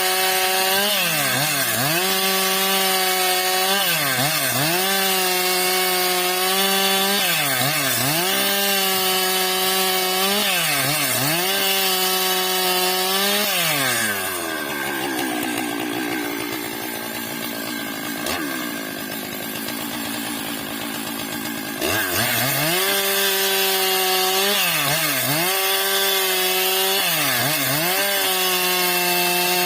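Stihl MS 661 two-stroke chainsaw ripping a eucalyptus log lengthwise at full throttle, its engine speed dipping briefly about every two seconds and recovering. About halfway through the engine drops to a much lower, quieter speed for roughly eight seconds, then revs back up and carries on cutting with the same dips.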